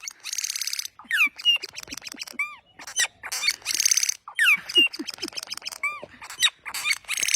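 A pet bird calling loudly: harsh, buzzy high-pitched chatter comes three times (about a second in, near the middle, and at the end), with short whistles that slide up and down and quick clicks in between.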